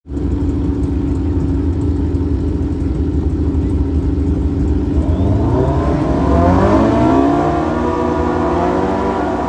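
Drag-racing vehicle engine rumbling steadily, then from about five seconds in rising sharply in pitch as it accelerates hard down the track.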